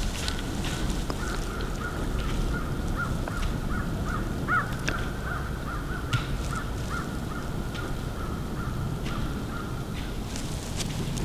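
A bird calling in a long series of short repeated notes, a few per second, over a steady low rush of wind.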